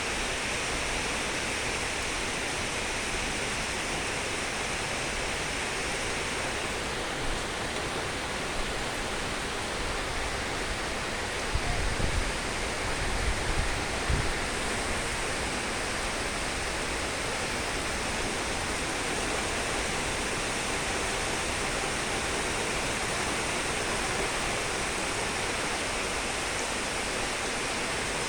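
Steady rush of flowing water, an even hiss-like noise without changes. Between about a third and halfway through there are a few seconds of low rumbling thumps.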